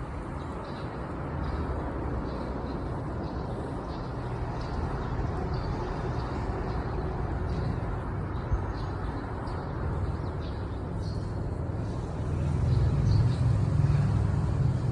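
Campfire burning outdoors, with faint light crackles over a steady low rumble that grows louder near the end.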